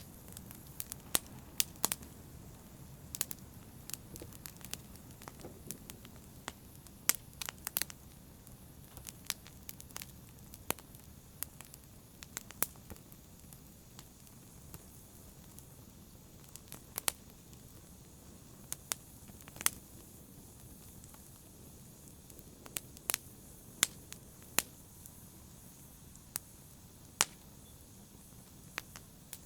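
Wood fire in a fireplace crackling: sharp, irregular pops and snaps over a soft steady hiss of burning.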